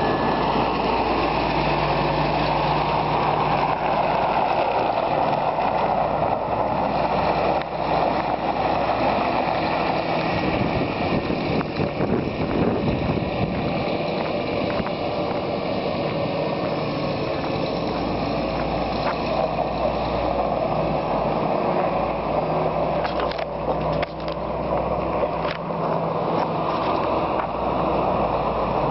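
Steady rushing noise with a Scania R truck's diesel engine running underneath, its low hum fading in and out.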